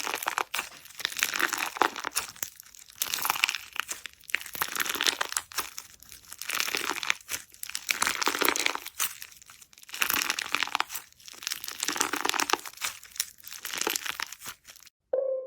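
Crunchy slime being squeezed and pressed by hand, giving crackling, crinkling bursts about every second or so. Just before the end it cuts off abruptly and piano music begins.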